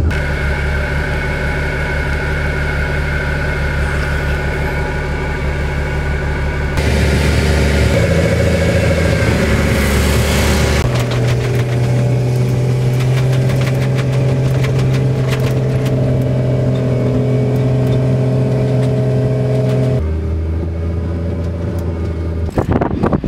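Jeep Cherokee engine running steadily while driving, heard from inside the cab. Its pitch steps to a new level a few times, with a rise about 8 seconds in and changes at about 11 and 20 seconds.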